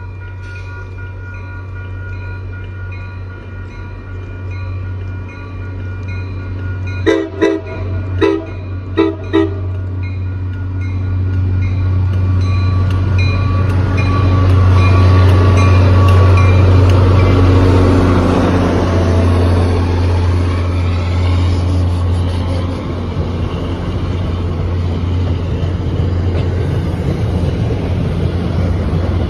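Crossing bells ring as a commuter-rail diesel locomotive approaches and sounds several short horn blasts about seven seconds in. The locomotive's deep engine drone swells as it passes, and the coaches follow with their wheels clattering over the rails.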